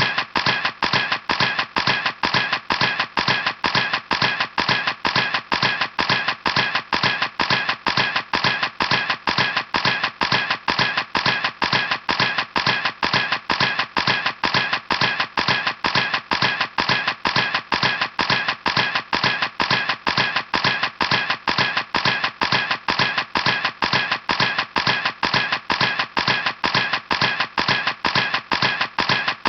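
Camera shutter clicking in a steady, even series, about three clicks a second, like a camera firing a continuous burst.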